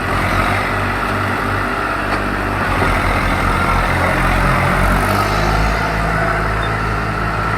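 Tractor diesel engine running steadily, its note shifting a few times.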